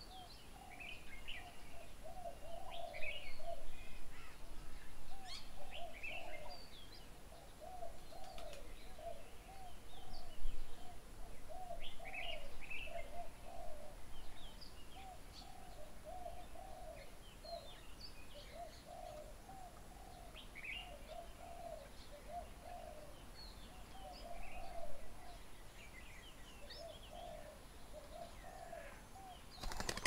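Several birds calling. One gives a low call note over and over in short runs, while others add scattered short, higher chirps.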